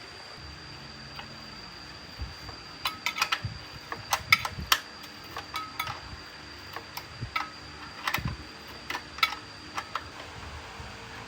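Irregular metallic clicks and clinks of hand tools and small metal parts being handled during work on a small water pump engine. They come in quick clusters over a faint steady high-pitched whine.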